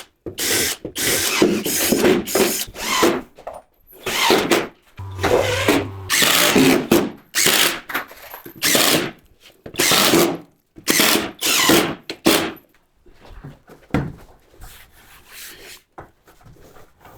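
Power drill driving screws into wood in many short bursts with brief pauses between them. The bursts stop about 12 seconds in, and a single knock follows a little later.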